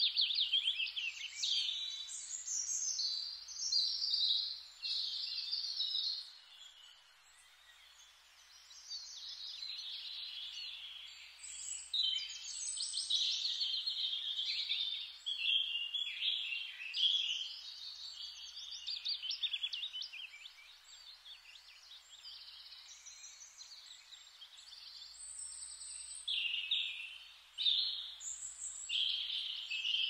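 Birds singing and chirping, many high-pitched calls overlapping almost without pause, thinning out briefly a few seconds in.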